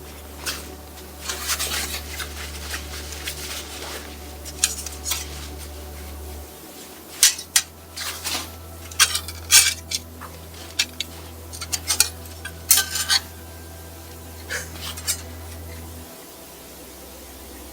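Metal camping cookware and gear being handled, with irregular clinks and knocks, some in quick clusters.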